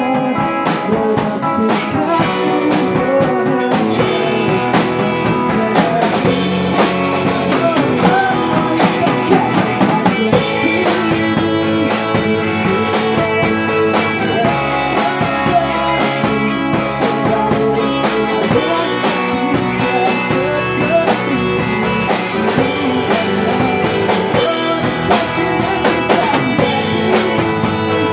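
Pop-rock band music with a drum kit and guitar, drums striking steadily throughout.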